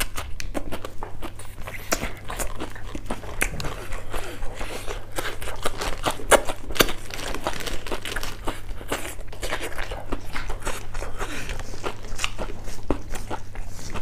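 Close-miked chewing and biting of singju, a crunchy Manipuri salad of raw leaves and greens: a dense run of quick, crisp crunches and mouth clicks, over a faint steady low hum.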